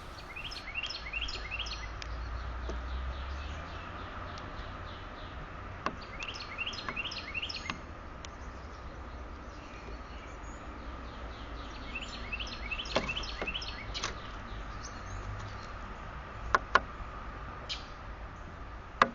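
A small songbird calling in three quick runs of chirps, with a few sharp clicks and a steady low outdoor rumble underneath.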